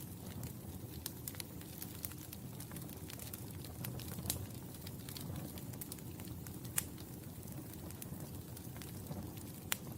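Wood fire burning in a fireplace: a steady low rumble of flames under irregular sharp crackles and pops, with a few louder snaps, one of them near the end.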